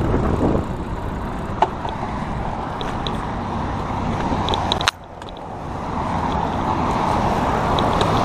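Road traffic running past with rumbling wind noise on the microphone of a moving bicycle. A sharp click about five seconds in is followed by a sudden drop in level, then a vehicle sound builds up again near the end.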